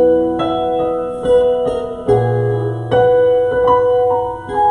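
Keyboard playing slow, sustained chords, a new chord struck about every second.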